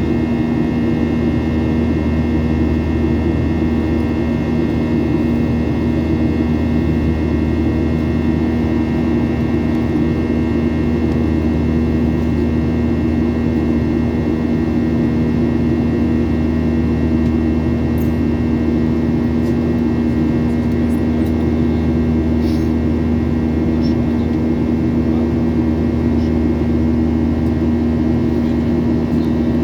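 Steady cabin noise inside a Boeing 737-800 in flight: the drone of its CFM56-7B turbofan engines and airflow, with several constant tones and no change in power. A few faint ticks sound about two-thirds of the way through.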